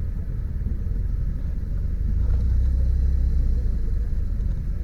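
Low, noisy rumble of a motorcycle on the move, growing louder about two seconds in and easing back near the end.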